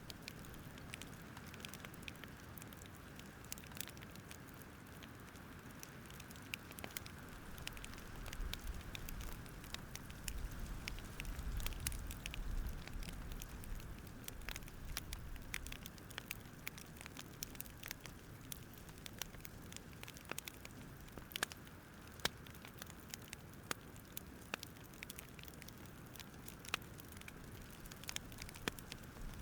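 Campfire crackling: irregular sharp pops and snaps over a soft steady hiss, with a low rumble swelling briefly about ten seconds in.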